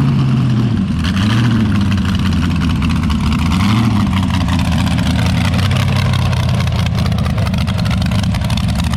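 Loud open-exhaust drag race car engine idling with a fast, choppy beat, given two light throttle blips to warm it up.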